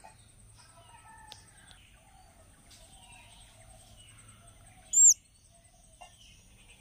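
A nestling bird begging: one short, very high, loud chirp about five seconds in. Faint distant birdsong and a steady thin high tone run underneath.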